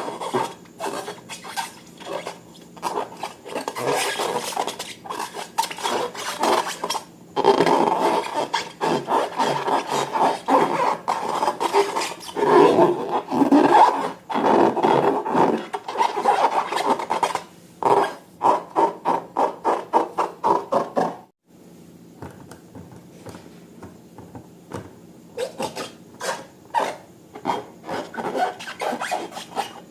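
Slime being squeezed and kneaded by hand, with a rapid run of sticky squelches and crackling pops. It breaks off briefly about two-thirds of the way through, is quieter for a few seconds, then picks up again.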